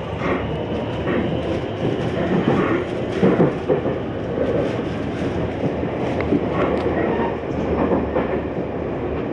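Tokyu Ikegami Line commuter train running between stations, heard from inside the car: a steady running rumble with irregular clicks and knocks from the wheels and car body, a little louder about three seconds in.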